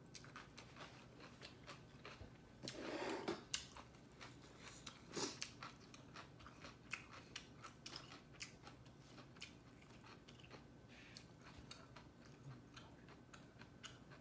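Close-miked mouth sounds of someone eating instant noodles: faint chewing with many small wet clicks, and a louder, longer burst of noise about three seconds in, with a shorter one about two seconds later.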